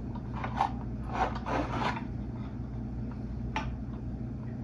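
Short rubbing and scraping sounds, a few in a row, from handling a whole chicken on a grill's rotisserie spit while it is secured, over a steady low hum.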